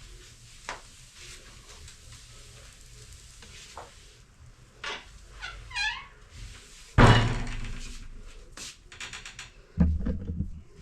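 Scattered knocks and clicks, with one loud thud about seven seconds in that rings on briefly, and a further thump near the end.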